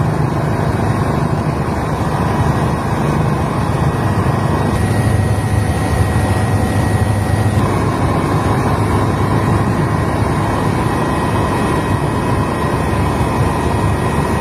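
Loud, steady engine drone with a low hum and faint steady whines above it, unchanging throughout.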